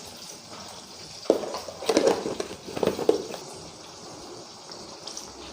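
A few short clinks and knocks of a spoon against a bowl over a faint steady hiss: one about a second in, then a cluster around two to three seconds, as a spoonful of spice is added.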